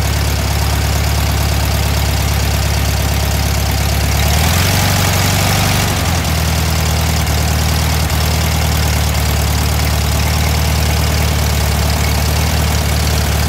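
Volkswagen Thing's air-cooled flat-four engine idling high and steady. About four and a half seconds in, its note shifts for a second and a half, then settles back.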